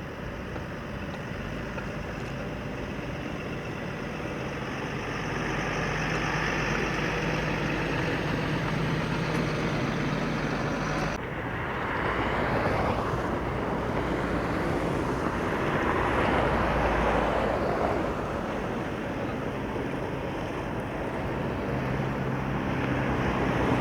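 Heavy engines running steadily, with a low engine hum under broad noise. About eleven seconds in there is an abrupt change to a louder, rougher stretch that swells and eases.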